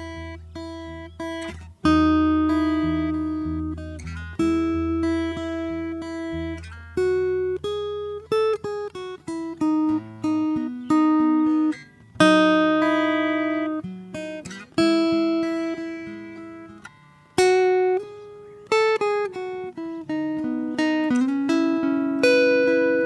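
Solo acoustic guitar played slowly and softly: single plucked notes and chords that ring out and fade. A low bass note sounds under the first ten seconds or so, and then drops away.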